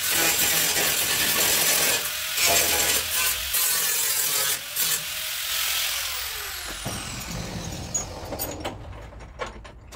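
A power tool running with a loud, hissing noise for about six seconds, then winding down, followed by a few sharp knocks near the end.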